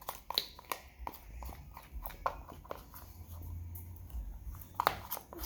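Slime being squished and kneaded by hand as paint is mixed in: irregular, faint wet clicks and pops.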